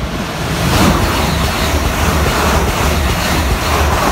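Class 350 Desiro electric multiple unit running past close by: a loud rush of wheels on rail and moving air over a steady low rumble. The noise swells about a second in and holds.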